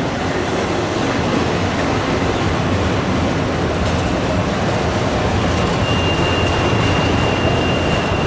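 Train rolling past, its wheels running on the rails with a steady rumble and rattle. A thin, high, steady squeal comes in about two-thirds of the way through.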